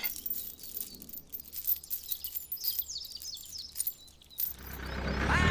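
Small birds chirping in short, quick high calls. About four and a half seconds in, a low hum swells up under them.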